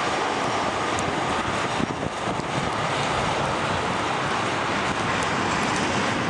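Tank cars of a freight train rolling past, a steady rushing noise of steel wheels on rail.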